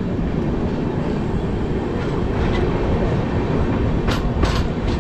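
Passenger train running along the track, heard at an open coach door: a steady rush of wheel and running noise, with a few sharper clacks from the wheels over the track in the last second or two.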